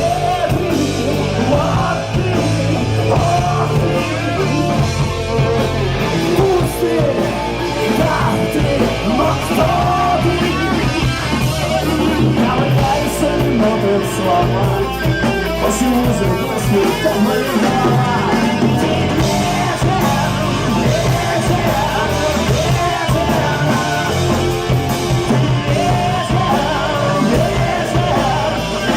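Rock band playing live at full volume, electric guitar prominent over a steady low end, in an instrumental stretch of the song.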